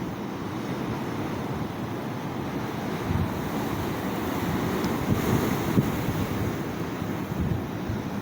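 Stormy sea surf washing onto the shore in a continuous rush, with strong wind buffeting the microphone in uneven low rumbles.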